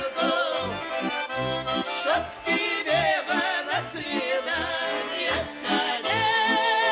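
Accordion playing an instrumental folk tune: a melody over a steady alternating bass-and-chord accompaniment, settling about six seconds in onto a long held note that wavers.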